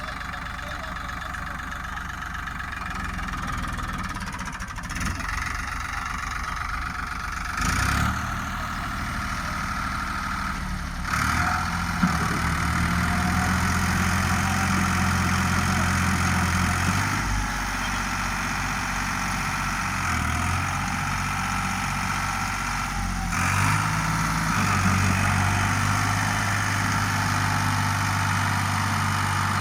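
Tractor diesel engine running steadily. Its pitch and loudness shift abruptly several times, most plainly about 8, 11 and 23 seconds in.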